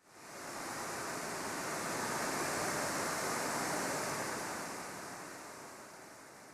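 A rushing wash of noise that begins suddenly, swells over the first second, then slowly fades away.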